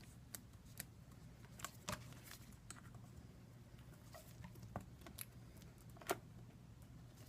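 Faint, scattered light clicks and taps from hands handling small tablet parts on a work surface, over a low steady hum; the sharpest click comes about six seconds in.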